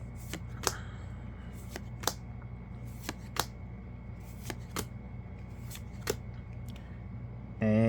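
Yu-Gi-Oh trading cards being flipped through one by one in the hand: a dozen or so light card snaps at irregular intervals, over a steady low hum.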